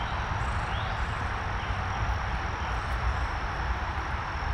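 Steady road noise of traffic on a nearby major road, an even rushing hum with a low rumble. A thin, steady high-pitched insect drone runs over it.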